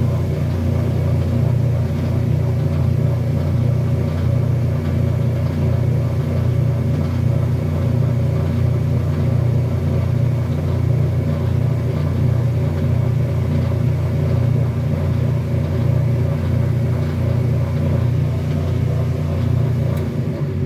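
Kenmore washing machine running with a loud, steady low hum and an even pulsing, which cuts off suddenly at the end.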